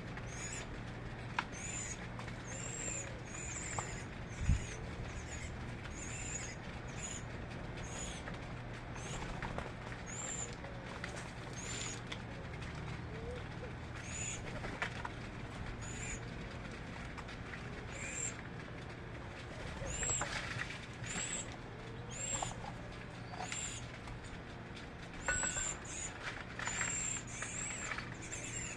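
Small birds chirping: short, high-pitched chirps repeated irregularly, about one or two a second, over a steady low hum.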